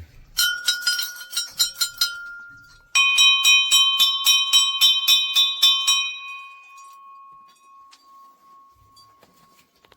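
Hindu temple bells rung rapidly, about four or five strikes a second. One bell clangs for about two seconds; then, after a brief gap, a second, lower-pitched bell is rung for about three seconds, and its ring fades away over the last few seconds.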